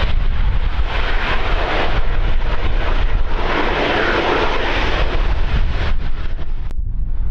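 Airplane passing, its engine noise swelling to a peak about four seconds in and then fading, over wind buffeting the microphone.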